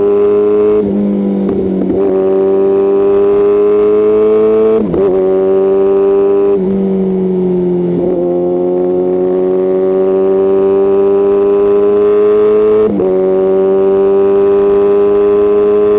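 Kawasaki ZX-6R's inline-four engine and exhaust under way, the note climbing slowly through each gear and dropping sharply at each upshift, about four times.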